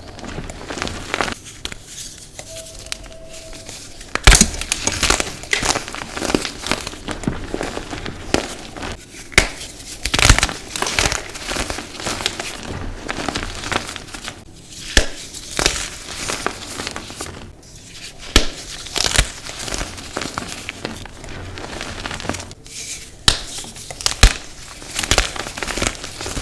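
Blocks of dyed gym chalk being crushed and crumbled by hand: a steady run of dry, irregular crunching and crackling, with a few sharper snaps as pieces break.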